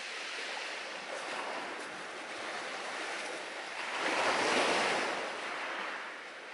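Sea surf washing onto the shore: a steady wash with one wave swelling to a peak about four seconds in, then falling away.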